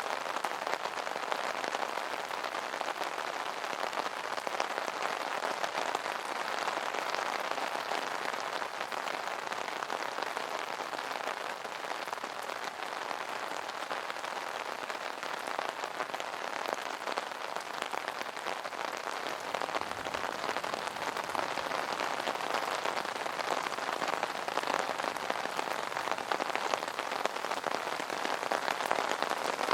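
Steady rain pattering on an umbrella canopy, a dense, even spatter of drops without thunder.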